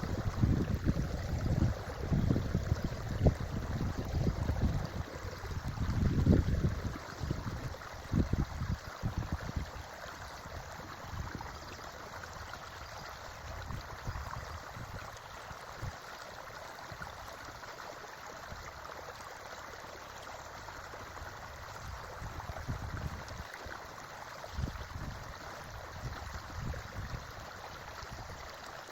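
Creek water running steadily over stones, with gusts of wind buffeting the microphone as low rumbles through the first several seconds and again briefly near the end.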